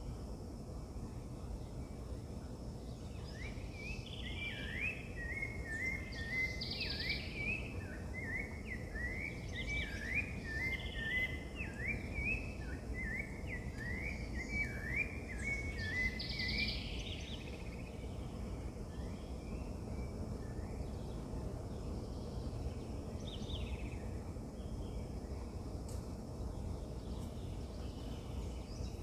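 Birds singing outdoors: a long string of quick, short up-and-down notes for about a quarter of a minute, with a few higher calls mixed in, then only scattered calls. A steady low background noise runs underneath.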